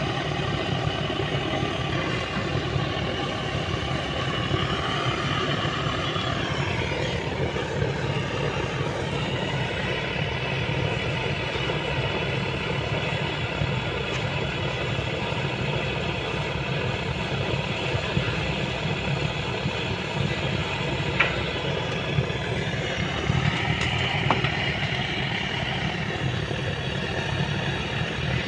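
JCB 3DX backhoe loader's Kirloskar diesel engine idling steadily, its higher whine dropping a little about six to seven seconds in, with a few faint clicks later on.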